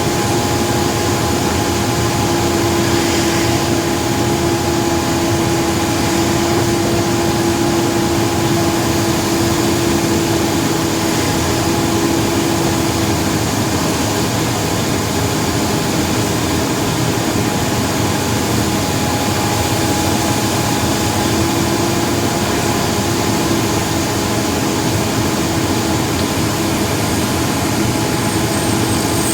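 A vehicle driving steadily along a highway: continuous engine and road noise with a constant, even hum.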